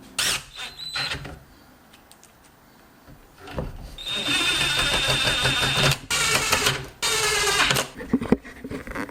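A small drill-like power tool motor runs with a steady high whine for about two seconds, stops, then runs again briefly, after a couple of light clicks.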